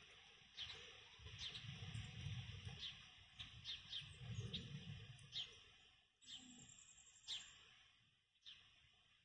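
Faint bird calling: short, high chirps that slide downward, repeated every half second to a second, with one longer high whistle a little past the middle. A low rumble sits underneath during the first half.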